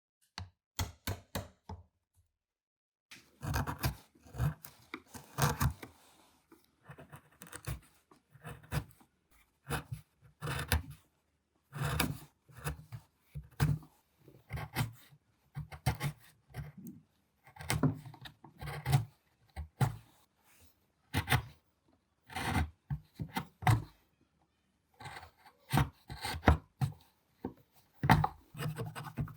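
Hand tools working wood: a series of short, irregular scraping and rasping strokes. A few sharp clicks come first, then after a short pause the strokes run on at about one or two a second.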